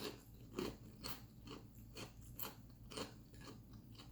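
A person chewing crunchy food close to the microphone, soft crunches about twice a second.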